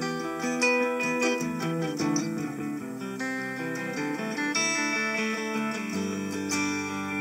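Guitar played through one of the presets of a Harley Benton DNAfx GiT multi-effects processor: picked and strummed chords ringing on, with a change to a new chord about six seconds in.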